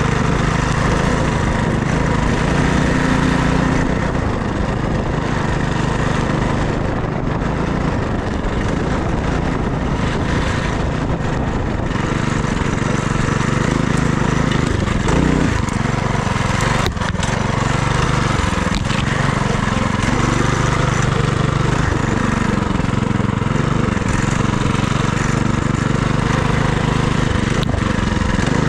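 FRP GMB100 minibike's small engine running while riding, its pitch rising and falling with the throttle, with a low rumble underneath and a single sharp click a little past halfway.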